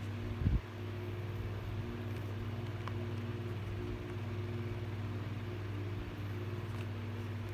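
A steady low machine hum, with a short low thump about half a second in.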